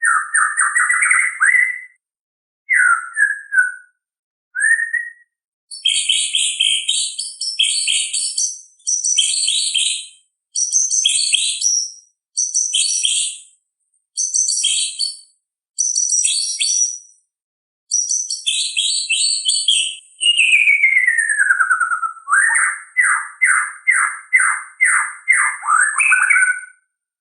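White-rumped shama singing loud, varied phrases of high whistles and chirps, each a second or two long with short pauses between. Near the end comes a long falling whistle, then a quick run of about ten repeated notes.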